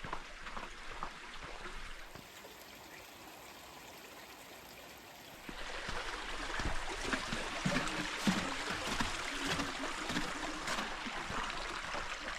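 A small burn (stream) running, a steady rush of water that becomes much louder about five and a half seconds in. Footsteps at the start.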